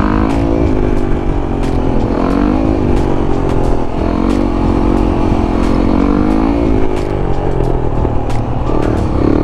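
Motorcycle engines revving, rising and falling in pitch over and over, over a steady low engine hum, with scattered sharp clicks.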